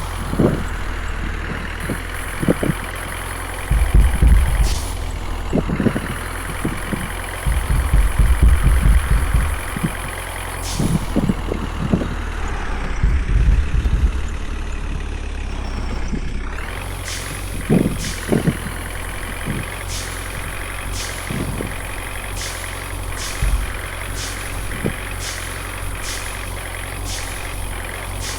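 A water-tanker vehicle's engine running steadily, with scattered knocks and rattles, and a run of evenly spaced clicks over the last several seconds.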